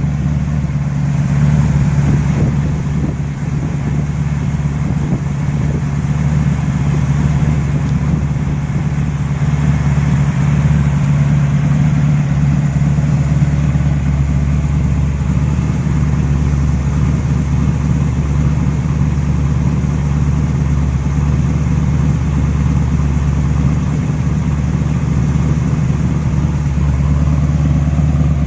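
The engine of a 1932 Ford truck idling steadily at an even speed.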